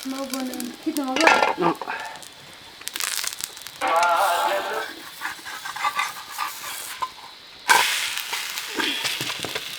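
Hot oil sizzling in a pan as food fries, with a spoon stirring and knocking against the pan. The sizzle rises sharply a couple of seconds before the end.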